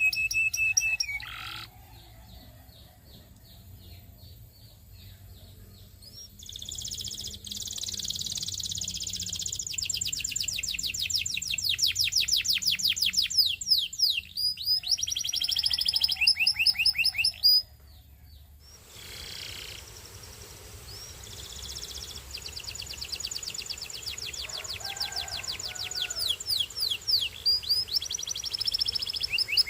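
Belgian singing canary singing: long phrases of fast, evenly repeated trills and gliding notes. The song starts several seconds in, breaks off briefly past the middle, then picks up again.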